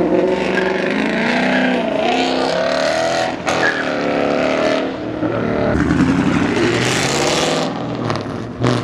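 Car engines revving and accelerating, their pitch rising and falling, with an abrupt break about three and a half seconds in.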